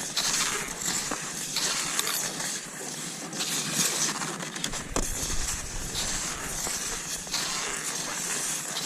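Cross-country skis sliding and crunching over snow in a steady stride. Hissy swishes come back about every second or so, with a few sharp ticks.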